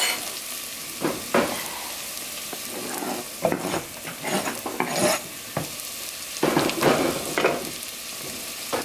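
Vegetables frying in hot oil in a stainless steel pot, a steady sizzle, with several irregular louder bursts as chopped fennel, onion and herbs are tipped in from a cutting board.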